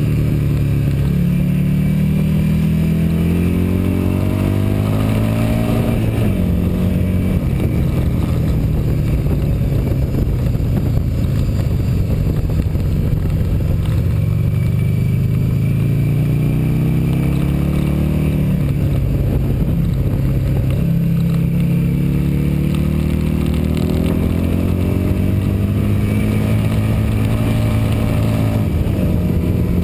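Motorcycle engine running hard on track, its pitch climbing for several seconds at a time under acceleration and dropping sharply a few times before climbing again.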